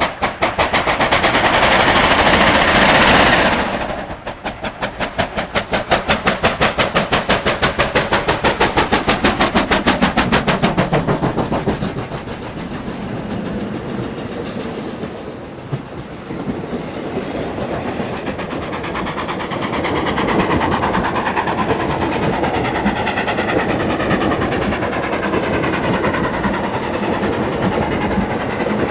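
South African Railways class 25NC steam locomotive working a train. It starts with a loud hiss of steam for about three seconds, then gives a fast, even run of exhaust chuffs. The chuffs fade after about ten seconds into a steady rumble and clickety-clack of the carriages' wheels over rail joints.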